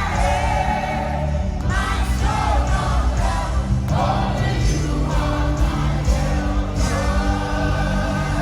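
Live gospel worship music: several voices singing together over an amplified band with a strong, steady bass.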